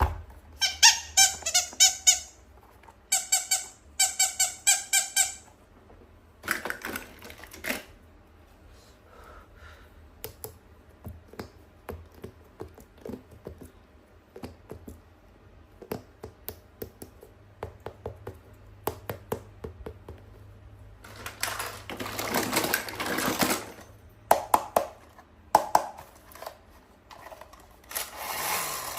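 Hands unboxing toys: a quick run of squeaks in the first few seconds, then scattered clicks and taps, and a stretch of rustling about 21 seconds in.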